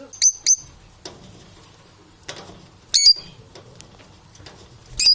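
Parrots chirping in short, sharp, high-pitched calls: two quick ones near the start, a burst about three seconds in, and another cluster at the very end.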